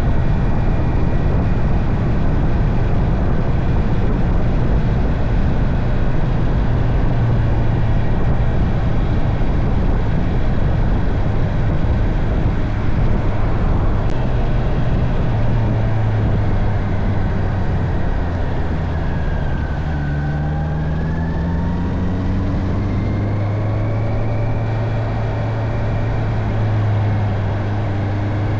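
Honda CB650R's inline-four engine running under way, with wind and road noise. About two-thirds through, the engine pitch drops and then climbs again as the bike slows and picks back up.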